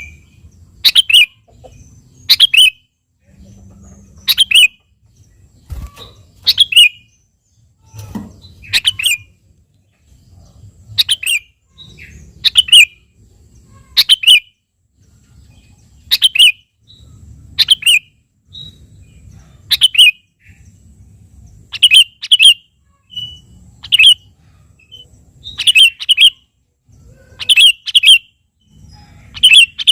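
Sooty-headed bulbul (kutilang) calling loudly and repeatedly: short, sharp call notes, often in pairs, about one every second or two.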